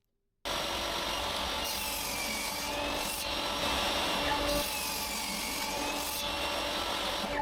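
Table saw running and cutting a piece from an oak shelf board on a crosscut sled, a steady sawing noise that starts abruptly about half a second in. A faint high tone in it sags and recovers twice as the blade takes the cut.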